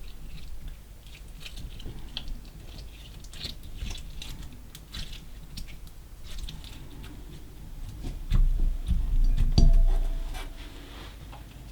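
Hands working slime mixed with small coloured particles: sticky crackling and popping clicks throughout, with a louder low rumble of handling noise for about two seconds near the end.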